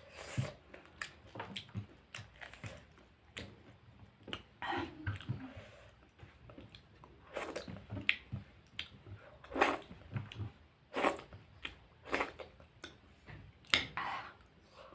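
A person eating close to the microphone: chewing and biting, with crisp crunches coming irregularly, several a second at times.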